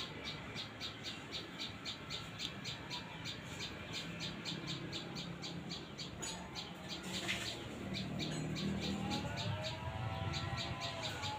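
A bird calling a rapid, even series of high chips, about four a second. A lower, wavering call joins near the end.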